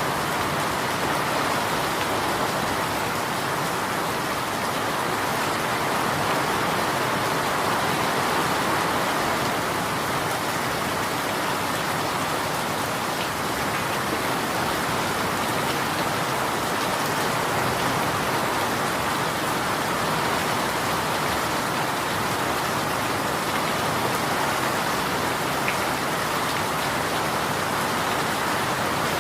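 Steady rain falling on a surface, an even hiss with scattered drops.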